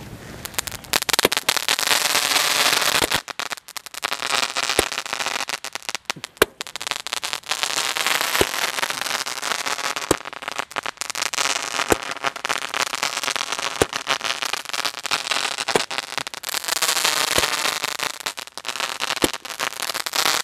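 A 12-shot 'King Pressure' aerial firework cake firing its shots one after another. Long hissing runs as the shots climb, with sharp pops about every two seconds.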